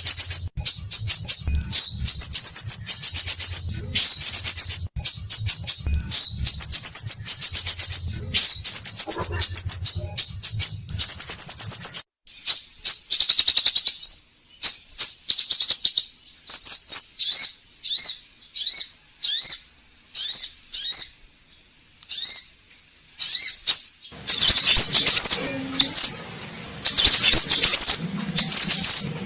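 Scarlet minivet (sepah raja) singing vigorously: rapid runs of high chirping notes that thin out to separate calls about halfway through, then pack densely again near the end.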